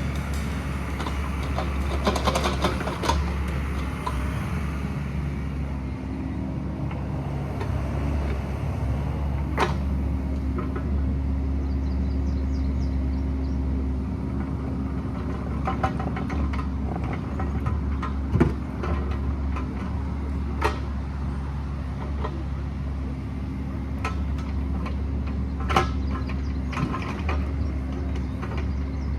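Excavator's diesel engine running steadily, with scattered sharp knocks and clanks of the bucket working rock, a burst of clatter a couple of seconds in and single hard knocks now and then.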